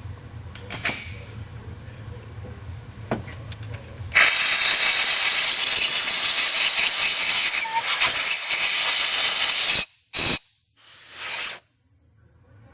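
Compressed-air blowgun blowing chips out of a freshly drilled head-bolt hole in an aluminium engine block: a loud steady hiss starting about four seconds in and lasting some six seconds, then two short blasts near the end. Before the hiss, a low hum with a few light clicks.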